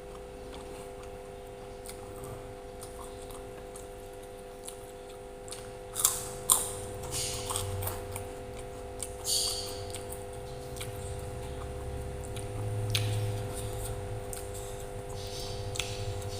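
A person eating close to the microphone: irregular low chewing sounds, with two sharp clicks about six seconds in and another a few seconds later, over a steady electrical hum.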